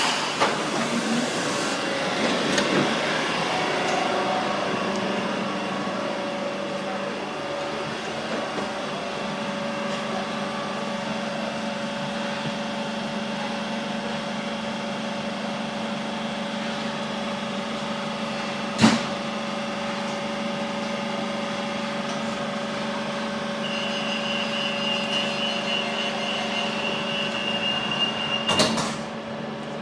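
Train running, heard from inside the carriage: a steady hum with fixed tones. There is a sharp click about two-thirds of the way through, and a high steady tone for a few seconds near the end.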